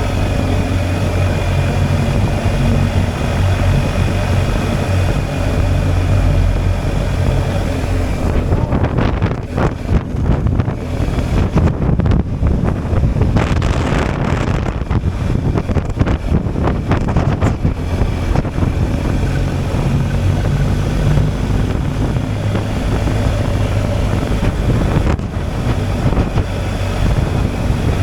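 BMW R 1250 GSA's boxer twin engine running steadily on the move, with wind buffeting the microphone, heaviest from about eight to eighteen seconds in.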